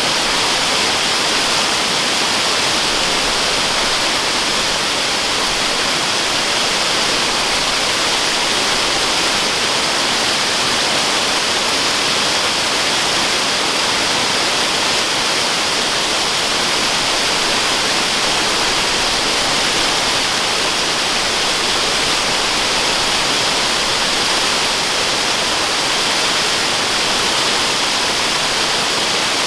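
Waterfall: a steady, loud rush of falling water, an even hiss with no let-up.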